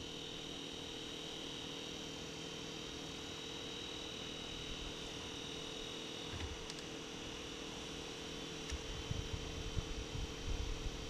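Faint steady hiss with a thin steady hum, and a few low thumps, one about six seconds in and several near the end.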